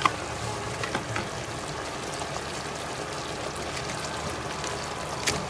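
Sweet and sour sauce simmering in a frying pan with fried chicken pieces in it, a steady bubbling sizzle with a few faint clicks.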